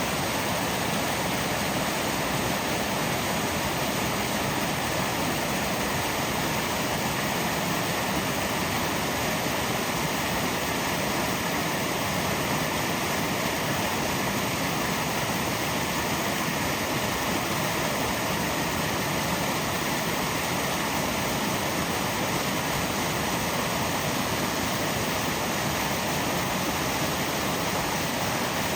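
A steady, even rushing noise that holds constant throughout, with no breaks or separate events.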